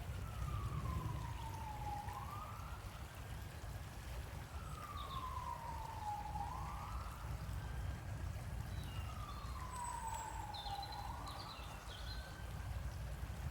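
Emergency-vehicle siren wailing, its single tone slowly rising and falling in pitch through about three cycles, over a steady low rumble.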